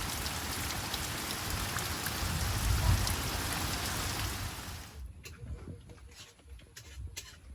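Steady rain falling, a dense hiss that cuts off suddenly about five seconds in, leaving a quieter background with scattered light clicks and knocks.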